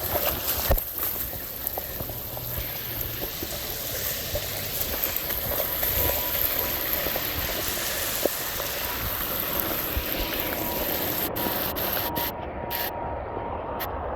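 Steady rush of floodwater running along a flooded street. Near the end the high hiss drops away, with a few sharp clicks.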